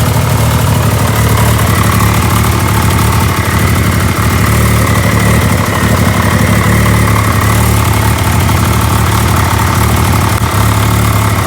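Volkswagen MK4 Bora's engine idling steadily, with no revving.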